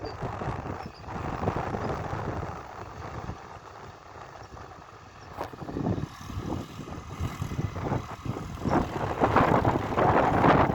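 Tractor engine running under load, swelling louder about six seconds in and again near the end, as the tractor struggles to pull itself free where it is stuck.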